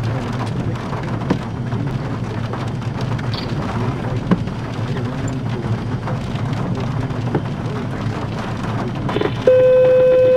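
Steady rain with scattered sharp drops and a low rumble. About nine seconds in, a loud, steady electronic tone starts abruptly and holds.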